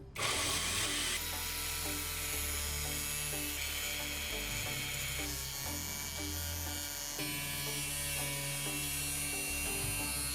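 A small electric power tool running steadily, starting abruptly, over background music.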